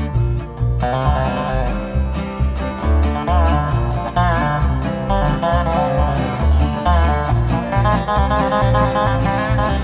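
A band playing a song live: plucked string instruments over a steady, changing bass line.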